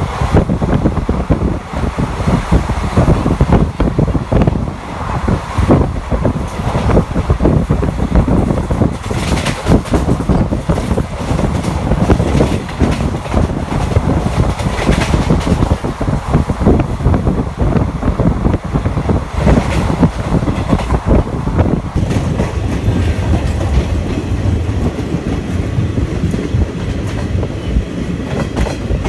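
Passenger express train running along the line, heard from on board: a continuous rumble with wheels clattering over rail joints.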